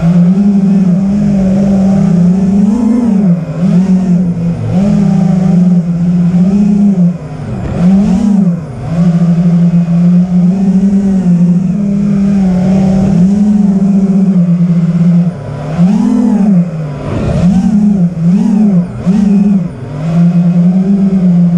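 A motor running loud at a steady pitch, with frequent short rises and dips in pitch like brief revs, climbing sharply in pitch near the end.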